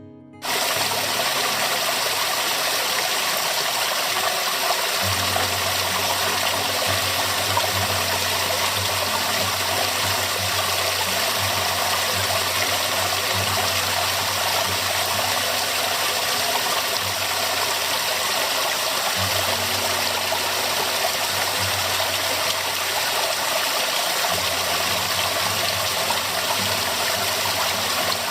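Waterfall: a steady, loud rush of falling water that cuts in abruptly right at the start. A low hum comes and goes underneath.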